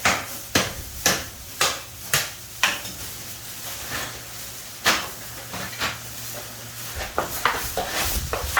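Hammer striking during tile work: sharp knocks about two a second, thinning out to a few separate strikes after about three seconds, then a quicker run of knocks and scraping near the end.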